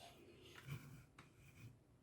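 Near silence with faint handling noise: a few soft clicks and rustles.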